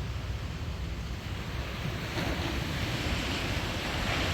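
Sea waves breaking on a sandy beach, a steady rushing surf that swells a little about two seconds in, with wind buffeting the microphone.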